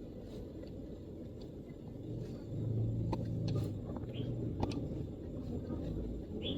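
Occasional MacBook keystrokes, sparse single clicks, over a steady low background rumble. The rumble swells louder for a couple of seconds in the middle. Faint bird chirps come a few times.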